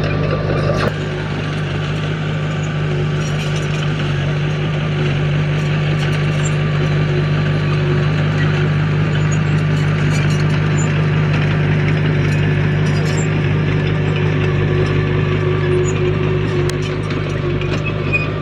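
Diesel engine of a heavy earthmoving machine running steadily at a constant pitch, with faint scattered clicks over it.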